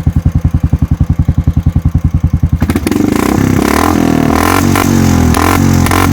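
Royal Enfield Classic 350 single-cylinder engine idling through an aftermarket Moto Torq launcher exhaust: a steady, even run of exhaust pulses. About three seconds in, loud music takes over.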